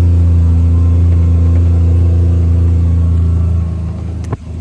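Engine of a Mule side-by-side utility vehicle running at a steady pitch while driving. It drops in level about three and a half seconds in, and one sharp click comes just before the end.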